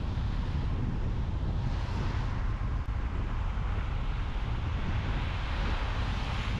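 Steady road noise from a moving car: a deep tyre and engine rumble under a hiss that swells and fades a few times.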